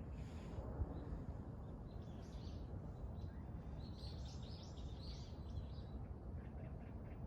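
Small birds chirping in short clusters, over a steady low background rumble of outdoor noise.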